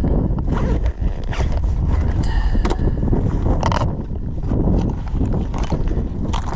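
Strong wind buffeting the microphone as a steady low rumble, with rustling and scattered clicks and knocks.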